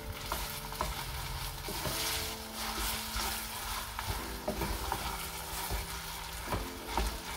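Grated potato sizzling as it fries in hot oil in a saucepan, stirred with a wooden spoon, with small knocks of the spoon against the pan every second or so.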